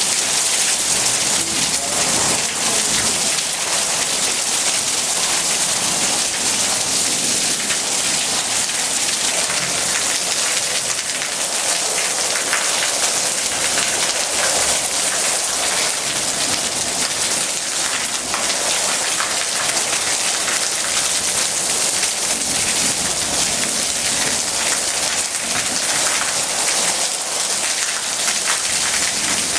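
Heavy rain pouring down steadily: a dense, even hiss with no letup, as water streams off a concrete roof edge.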